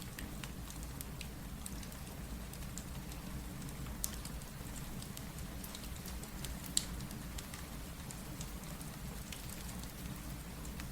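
Steady rain with a low rumble, mixed with scattered sharp crackles and pops from a wood fire. The loudest pops come about four seconds in and again near seven seconds.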